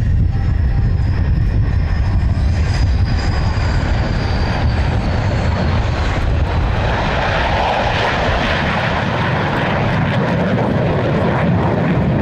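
Loud airplane engine noise: a high whine slowly falls in pitch over the first half, then gives way to a broad rushing noise.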